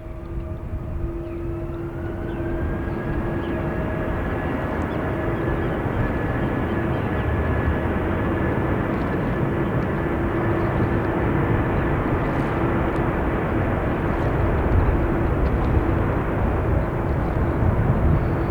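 Jet airliner's engines spooling up to takeoff thrust: a rising whine over the first couple of seconds, then a steady loud rush of jet noise with a steady hum under it.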